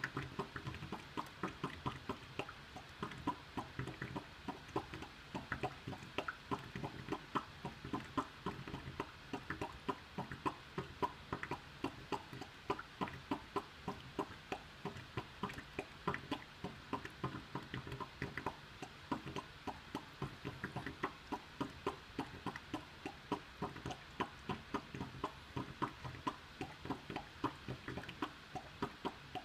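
Air conditioner making a continuous run of irregular popping clicks, several a second, over a faint low hum. This is the abnormal noise of an airtight room: it stops when a window is opened and is traced to the duct, which needs repair.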